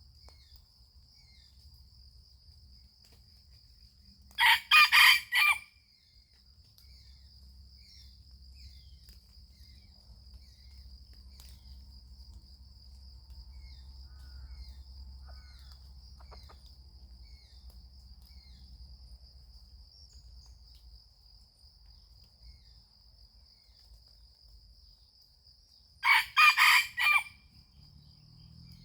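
A rooster crowing twice, about twenty seconds apart, each crow about a second long and broken into several pulses, over a steady high-pitched insect drone.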